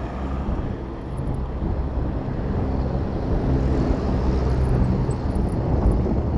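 Road traffic heard from a moving bicycle: a steady rumble of vehicle engines and tyres with low wind rumble on the microphone.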